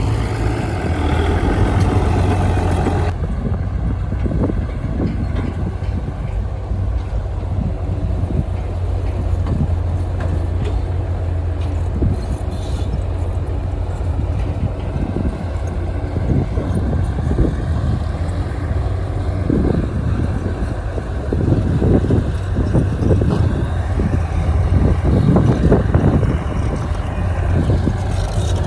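Heavy diesel earthmoving machinery running steadily with a deep engine hum, with scattered knocks and clanks that come more often near the end. A higher hiss over the engine drops away about three seconds in.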